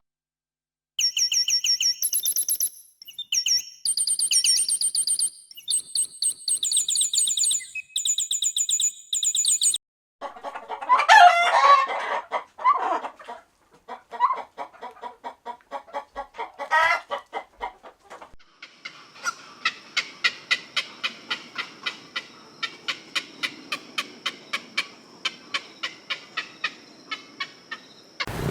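Chickens calling in several short clips one after another, ending in a long, even run of clucks, about two or three a second.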